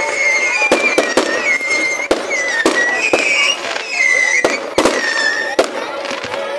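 Fireworks display with many sharp bangs and crackles, several a second. High wavering whistles run underneath throughout.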